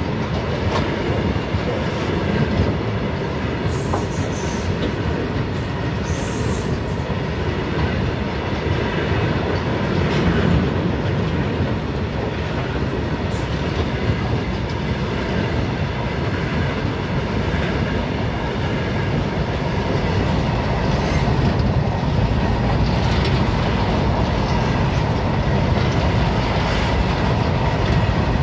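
Goods train wagons rolling steadily past, with a continuous rumble of wheels on rail and clatter over the rail joints. A few short high squeals from the wheels come about four to seven seconds in and again around thirteen seconds.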